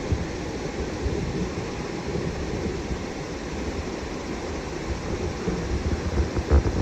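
Wind buffeting the phone's microphone: a steady low rumble with irregular thumps and one louder thump near the end.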